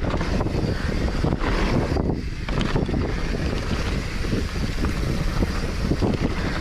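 Mountain bike riding a dirt trail: wind buffeting the camera microphone over steady tyre noise, with irregular knocks and rattles from the bumps.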